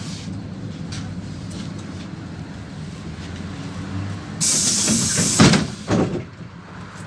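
PAZ 32054 bus's engine running steadily, then about four seconds in a loud hiss of compressed air and two thuds as the bus's pneumatic doors work.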